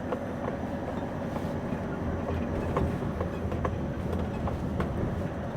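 Scania V8 diesel low-loader lorry driving slowly along a lane, heard from inside the cab: a steady low engine and road rumble with scattered clicks and rattles.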